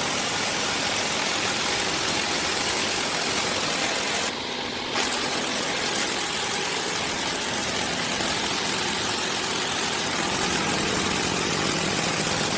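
Small motor of a mini model tractor running steadily with an even whirring hiss, dipping briefly about four and a half seconds in.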